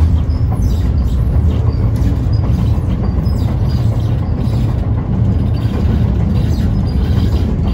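Rail vehicle running on the track: a steady, loud low rumble.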